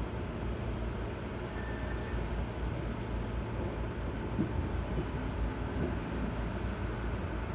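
Seibu 6000 series electric train running at speed: a steady low rumble of wheels on rail, with a few light knocks about halfway through.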